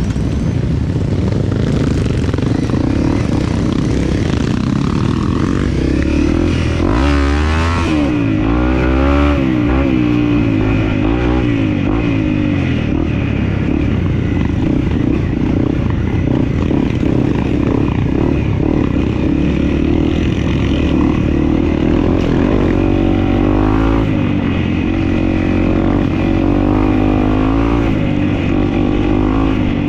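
Dirt bike engine running while being ridden off-road, the revs rising and falling with the throttle, most sharply about a quarter of the way in.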